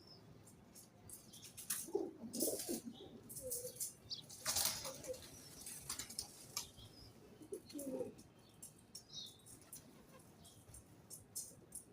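Pigeons cooing several times, low and soft, with a burst of wing flapping about four and a half seconds in and small high ticks and chirps between.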